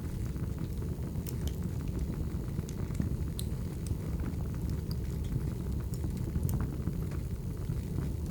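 Burning firewood: a steady low rumble of flames with scattered sharp crackles and pops.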